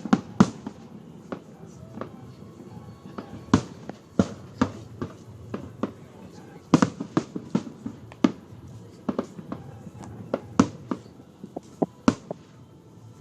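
Fireworks exploding in a quick, irregular series of sharp bangs, about two a second, with the last big bang shortly before the end.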